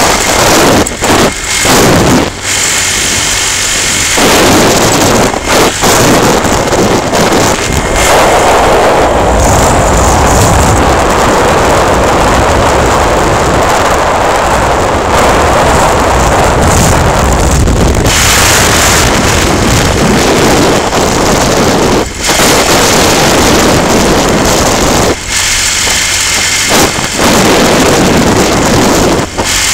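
Wind buffeting the microphone on a moving motorcycle, a loud, gusty rush with brief drop-outs, the motorcycle's engine and road noise running underneath.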